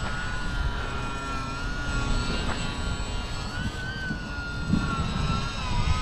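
Small electric motor and propeller of an E-flite UMX Timber micro RC plane whining, its pitch wavering up and down as the throttle is worked to hold the plane against the wind. Heavy wind buffets the microphone.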